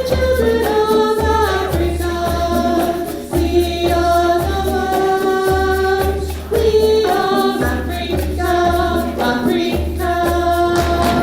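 Community choir singing an African song in held, changing notes over a steady percussion beat.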